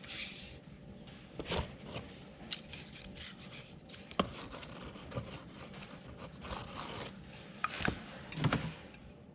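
Hands rubbing engine oil onto a piston and its rings: a soft, scratchy rubbing with several sharp clicks and light knocks of the metal parts.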